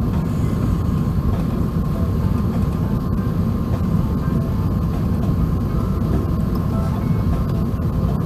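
Steady low rumble of cabin noise inside an Airbus A380, engine and airflow noise, with a faint thin steady tone above it.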